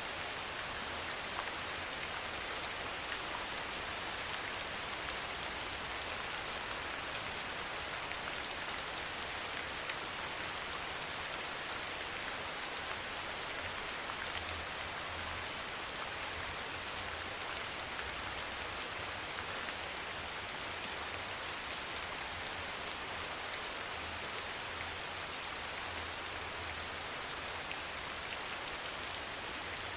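Soft rain falling steadily: an even hiss with faint scattered drop ticks.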